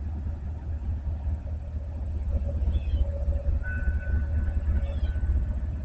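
Low, steady rumble of an approaching BNSF coal train's diesel locomotives, still some way off, with faint steady high tones in the middle.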